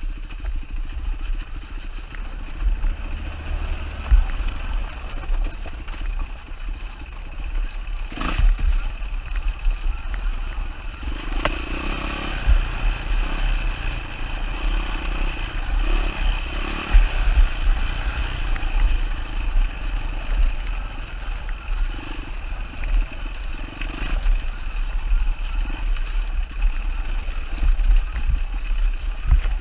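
2007 Yamaha WR450F's single-cylinder four-stroke engine running as the dirt bike rides a rough trail, over a heavy fluttering low rumble, with a sharp knock about eight seconds in.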